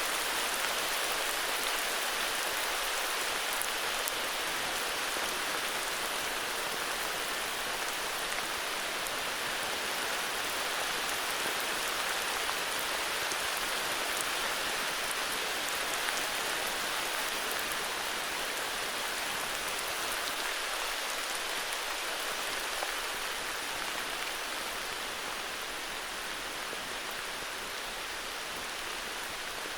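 Steady heavy rain falling, a dense even hiss of drops with no thunder or breaks.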